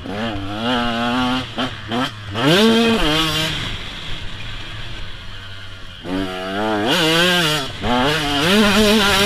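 KTM 125 SX two-stroke motocross bike engine revving hard, its pitch climbing and falling off again and again as the throttle is worked. The engine note goes quieter and lower for a couple of seconds in the middle before revving back up.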